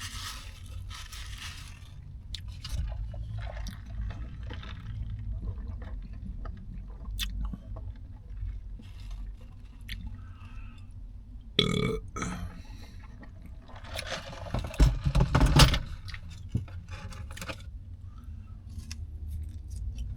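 Close-up chewing and wet mouth clicks from someone eating a sub sandwich, with burps about twelve seconds in and again about fifteen seconds in, the second the louder.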